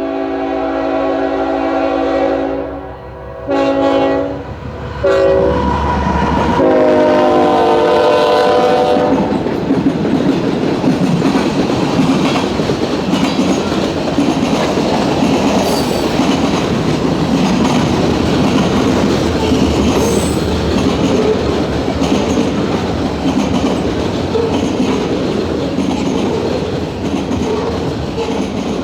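Freight train's lead diesel locomotive sounding its multi-note air horn in the grade-crossing pattern (long, long, short, long), the last blast lower in pitch as it passes. The train then rolls by with steady wheel and rail clatter.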